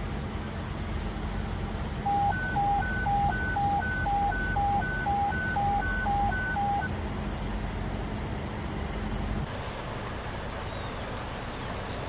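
Electronic warning beeps, two tones together, repeating about twice a second for about four seconds over a steady low rumbling noise. The rumble drops away abruptly about three-quarters of the way through.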